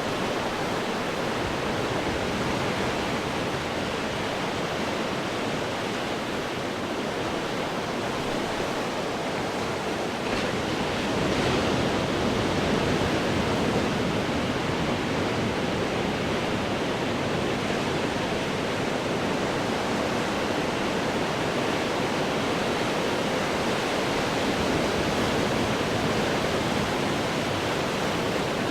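Ocean waves breaking on rocks: a steady wash of surf that swells louder about eleven seconds in and stays up.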